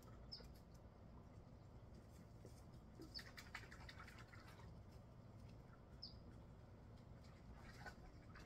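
Near silence: faint yard ambience with a short high bird chirp about every three seconds and a few faint scattered clicks and rustles.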